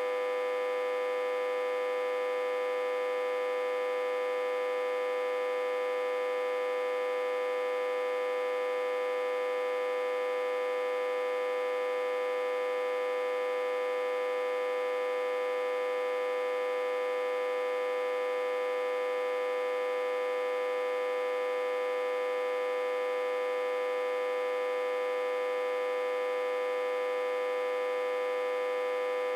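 Autotransformer, reverse-connected to a step-down transformer and fed about 60–80 V, humming: a steady, unchanging, fairly high-pitched hum with many overtones.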